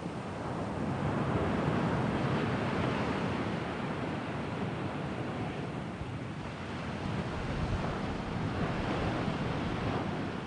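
Sea waves washing onto the shore, surging about a second in and again near the end.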